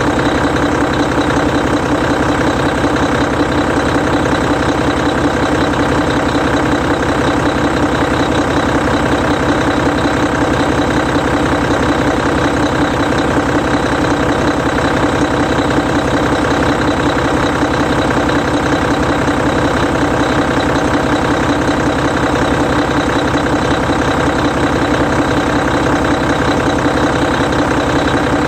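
Hino E13C 12.9-litre inline-six diesel engine of a Hino Selega bus idling steadily, with an even, unchanging running sound.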